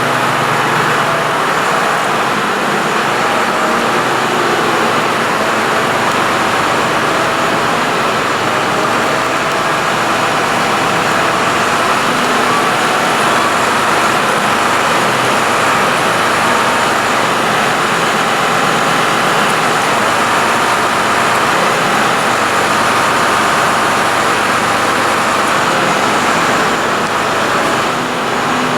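Large farm tractor engines running steadily and loudly at close range while they work maize silage.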